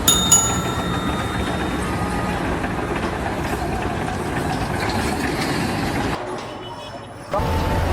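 Steady machinery or heavy-vehicle noise, with a sharp metallic knock that rings briefly near the start. About six seconds in it drops away, and near the end a different sound with a low hum and a steady tone cuts in.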